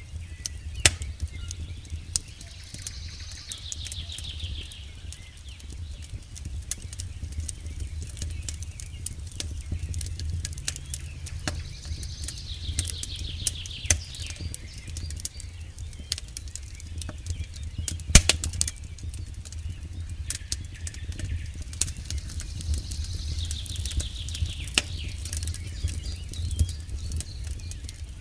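Campfire crackling with frequent sharp pops over a steady low rumble. Three times, about ten seconds apart, a high trill falls in pitch over about two seconds.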